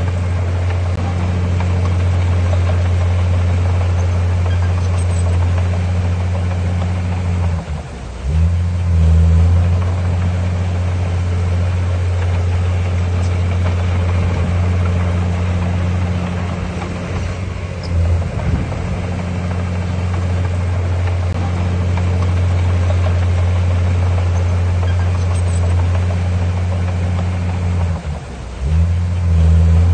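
Heavy earthmoving machine's diesel engine running steadily, its speed dipping and surging briefly three times, about ten seconds apart.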